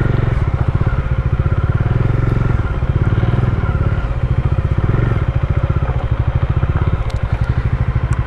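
Bajaj Dominar 400's single-cylinder engine running as the motorcycle is ridden, a steady low sound with a fast, even pulsing.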